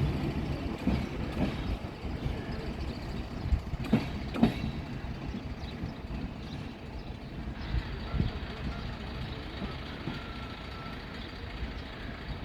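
A train rolling through the station, its low rumble fading over the first couple of seconds and then running on more quietly, with two sharp knocks a little after four seconds in.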